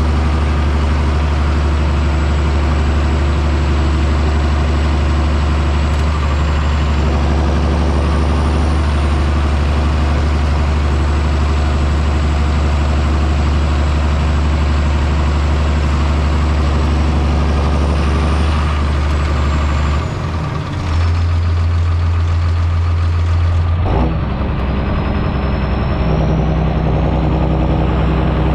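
John Deere 6630 Premium tractor's six-cylinder diesel running steadily under load with a high whine above it. The engine note changes about two-thirds of the way through, then shifts suddenly a few seconds later, with the whine falling away and rising again.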